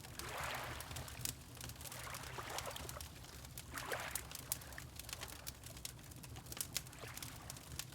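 Water lapping in a few soft swells over the steady crackle and pops of a wood fire, with a low steady rumble underneath.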